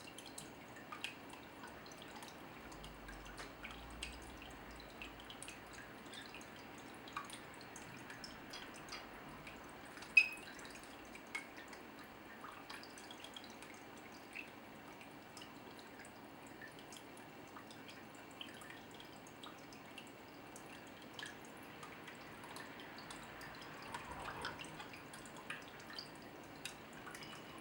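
Water dripping and trickling steadily, with many small scattered ticks and one sharp click about ten seconds in.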